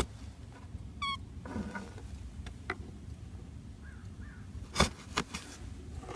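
Pet bird giving one short, harsh call about a second in, among scattered sharp clicks and taps; the loudest click comes near the end.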